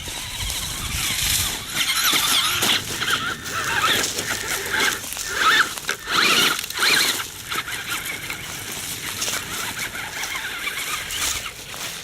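Electric radio-controlled truck's motor and gears whining in bursts as it is throttled up and down on a steep climb.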